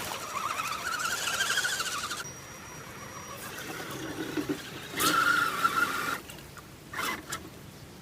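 Radio-controlled truck's motor whining in bursts as it is throttled through mud: a wavering whine for about two seconds that cuts off suddenly, then another short burst about five seconds in and a brief blip near the end.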